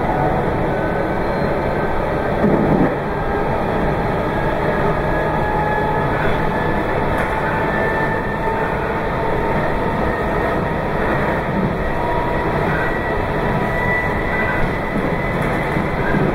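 Meitetsu 2200 series electric limited express running at speed: a steady rolling rumble with faint whining tones and a brief bump about two and a half seconds in.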